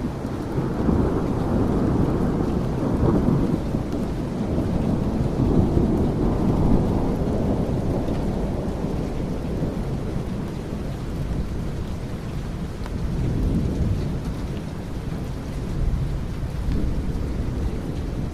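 Thunderstorm: a long rolling rumble of thunder over steady rain. The rumble swells through the first several seconds, eases off, then comes back in two smaller swells near the end.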